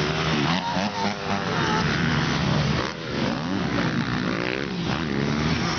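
Several motocross bike engines revving at once, their pitches rising and falling and overlapping as the throttles open and close.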